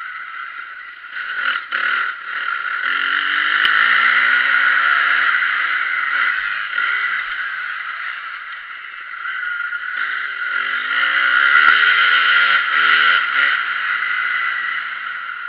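Motocross bike engine revving up and down, its pitch climbing and falling repeatedly. It grows loudest about four seconds in and again about twelve seconds in.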